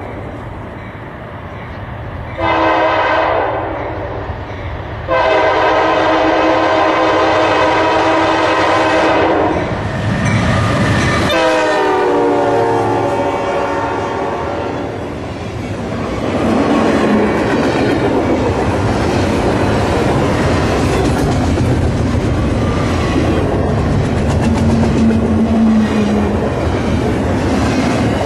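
Norfolk Southern diesel locomotive sounding its air horn in long blasts as it approaches. The last blast drops in pitch as the locomotive passes, and then comes the steady rumble and wheel clatter of a double-stack intermodal container train rolling by.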